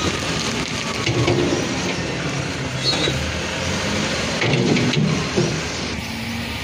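Mitsubishi Canter dump truck rumbling and knocking as it crawls over a potholed road.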